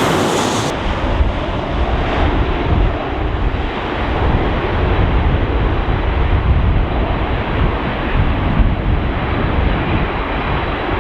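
Boeing 737-800 jet engines on approach, a steady rushing roar with a deep rumble of gusty wind buffeting the microphone.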